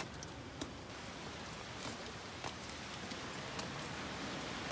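Steady rain falling on wet paving, with scattered sharp drops ticking close by.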